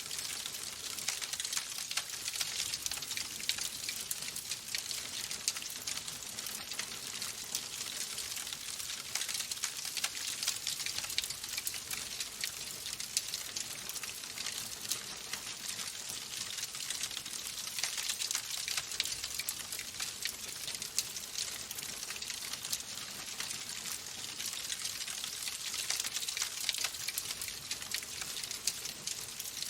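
Wood fire burning in a fireplace, crackling steadily with a dense stream of small pops and snaps over a soft hiss.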